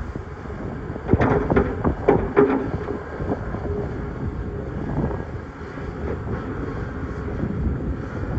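Excavator's diesel engine running steadily, with rocks knocking against the bucket in a cluster of clanks between about one and two and a half seconds in, then a couple of single knocks.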